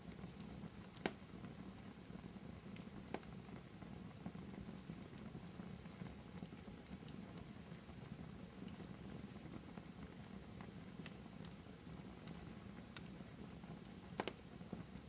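Wood fire crackling over a steady faint hiss, with frequent small ticks and a few louder pops: one about a second in, another about three seconds in, and a double pop near the end.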